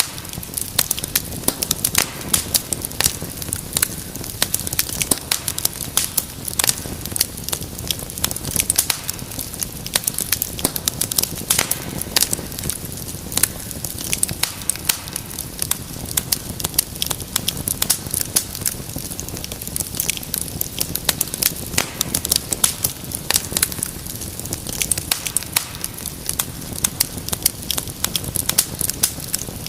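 Wood fire crackling in a fireplace: dense, irregular sharp pops and snaps over a steady low rumble of burning.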